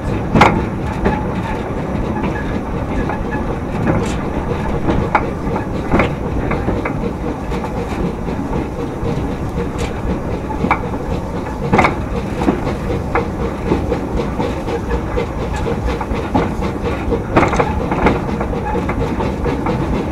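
A 2 ft narrow-gauge train running along the line: a steady rumble, with sharp clicks and knocks from the wheels over rail joints every few seconds, the loudest about half a second in.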